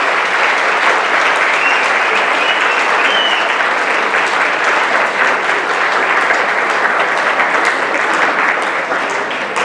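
Large audience applauding steadily, a dense patter of many hands clapping at once.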